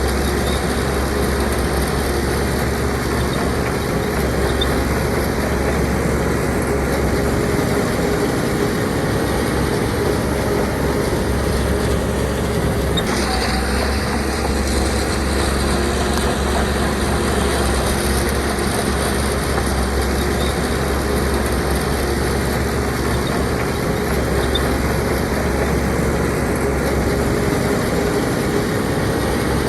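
Heavy diesel engine of earthmoving machinery running steadily under a constant load, with a deep, even hum.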